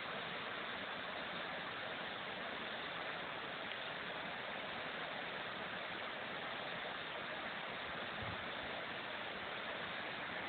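Steady rushing of a rain-swollen creek running high as white water.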